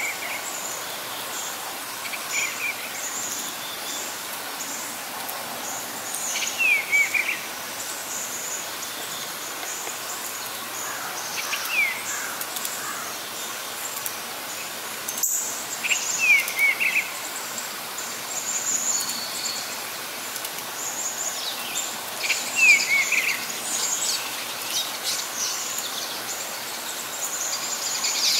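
Birds chirping: short downward-sliding chirps every few seconds over a steady scatter of faint, high chips. A single sharp click about halfway through.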